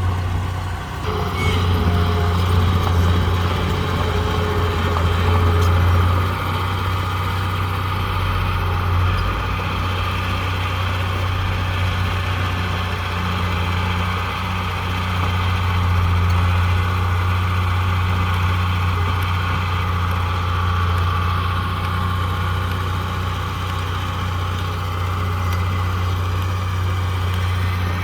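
Heavy construction machine's diesel engine running steadily with a deep, even hum, swelling slightly now and then.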